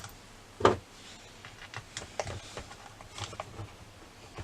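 Light clicks and taps of small plastic RC car steering parts being handled and fitted together, with one louder knock about two-thirds of a second in.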